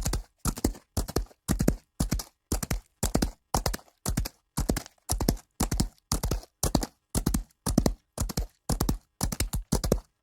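Horse hooves clip-clopping on a hard surface in an even rhythm, about two groups of two or three quick hoof strikes each second.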